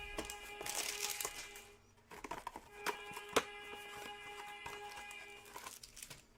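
Cardboard and plastic wrapping of trading-card hanger boxes being torn and crinkled open, with a rustling stretch early on and then several sharp snaps and clicks, over soft background music with held notes.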